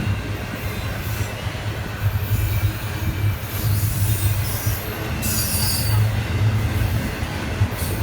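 Train rolling past with a steady, pulsing low rumble of wheels on rail, and a burst of high-pitched wheel squeal about five seconds in.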